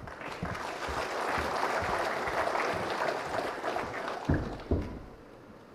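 An audience claps steadily for about four and a half seconds, then the applause dies away. Near the end there are two dull thuds about half a second apart.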